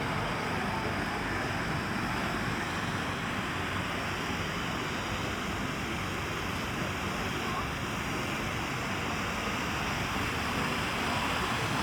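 Steady city street ambience: a constant wash of background noise with faint, indistinct voices and no distinct events.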